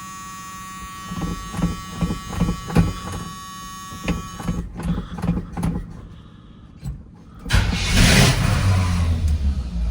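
Classic truck's V8 cold-starting on freshly changed spark plugs: the starter cranks in a run of even pulses, and then the engine catches a little over seven seconds in and keeps running.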